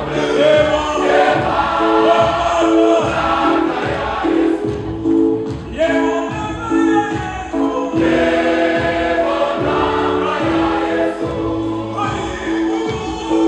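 A choir singing gospel music over a steady beat.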